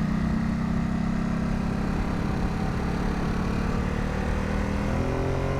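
Ducati SuperSport 950's V-twin engine running under way, heard on board with wind rush; the revs climb about four and a half seconds in as the bike accelerates.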